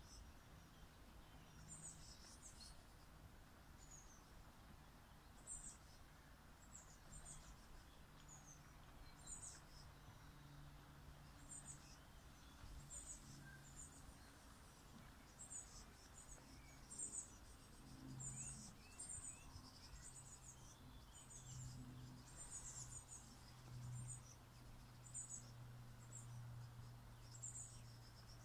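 Faint, high chirps of small birds, repeated every second or two and coming more often in the second half, over a low steady hum.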